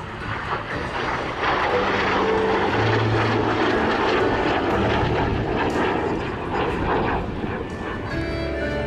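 F-86 Sabre jet flying past, a loud even rush of jet engine noise that builds about a second in and eases off slightly near the end. Faint music sits underneath.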